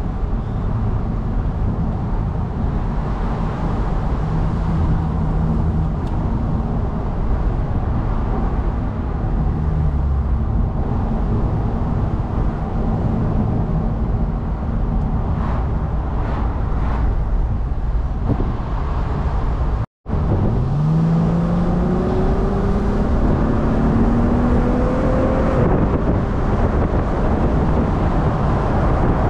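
Mercedes-Benz R230 SL350's V6 and road noise at a steady cruise. After a brief break in the sound about two-thirds of the way in, the engine accelerates, its note rising twice in a row as it shifts up a gear.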